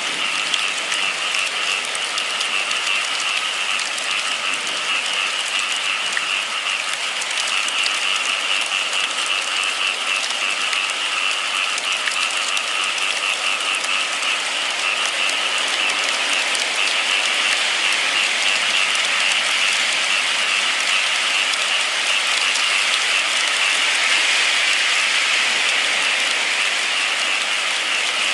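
Steady rain falling, a dense even hiss that grows slightly louder in the last few seconds.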